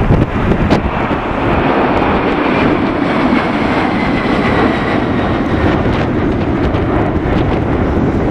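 McDonnell Douglas MD-11F freighter's three jet engines at takeoff power: a loud, steady jet roar with a faint high whine that drops slightly in pitch midway.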